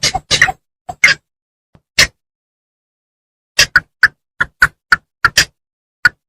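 Bittern calls: a few short, clipped notes in the first two seconds, then after a pause a quick series of about eight notes, with dead silence between the calls.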